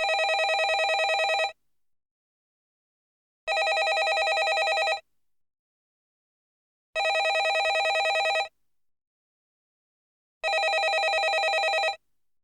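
Landline telephone bell ringing: four rings of about one and a half seconds each, a rapid rattling trill, with pauses of about two seconds between them.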